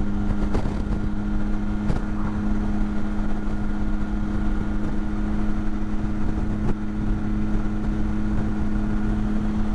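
Motorcycle engine running at a steady pitch while the bike cruises, with a low rumble underneath.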